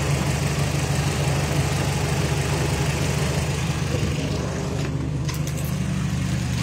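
A car engine idling steadily with an even low hum, under a broad hiss that stops about five seconds in, followed by a few faint clicks.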